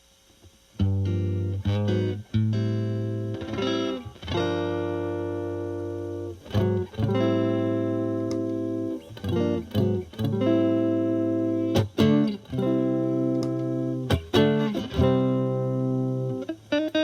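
Electric guitar (Fender Stratocaster) played through a Marshall Valvestate amp on its clean channel: ringing, sustained chords with short gaps between phrases. Partway through, about eight seconds in, a Boss DS-2 Turbo Distortion pedal is switched on with turbo mode off.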